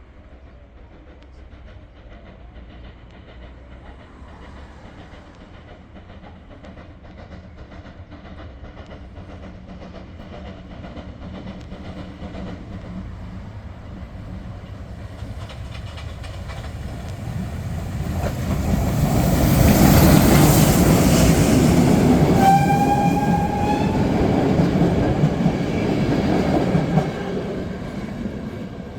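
Pt47 steam locomotive hauling a passenger train, approaching and running past. The sound grows steadily louder to a peak about two-thirds of the way through, with wheels clacking over rail joints. A brief high pitched tone sounds near the peak, and the sound drops away near the end as the train passes.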